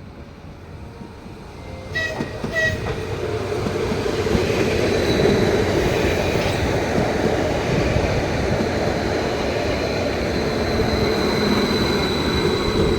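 A train running along the track: two short tones about two seconds in, then the rumble of wheels on rails builds and stays loud, with a faint high squeal over it.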